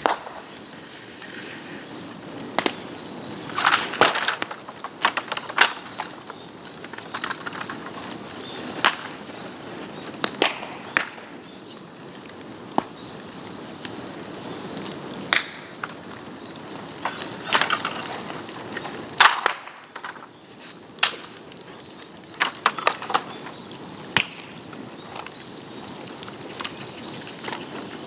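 Dry bamboo cracking and snapping in sharp, irregular cracks, some single and some in quick clusters, over a low steady background.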